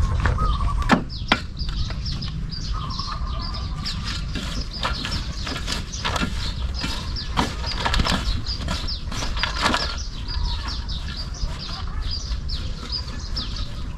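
Small birds chirping in many short, quick high notes, with two sharp knocks about a second in and a few scattered clicks over a low steady rumble.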